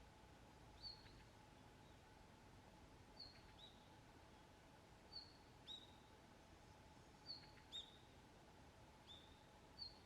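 A small bird giving short, high call notes, mostly in pairs, repeated about every two seconds, faint over a steady low hum.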